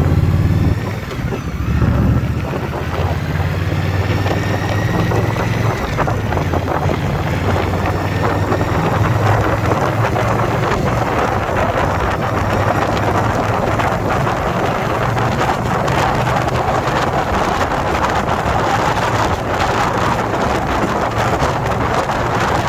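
Indian Scout Bobber Twenty's V-twin engine pulling away and rising in pitch through the first few seconds, then running steadily at cruising speed. Heavy wind rush on the microphone builds up over the engine.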